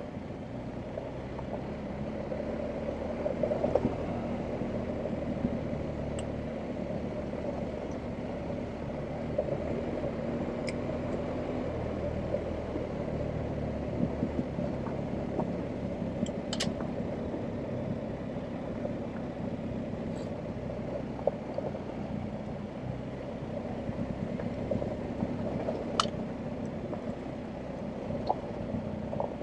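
BMW R1250GS Adventure's 1254 cc boxer-twin engine running at low, fairly steady revs while the bike is ridden off road. A few sharp clicks stand out over it.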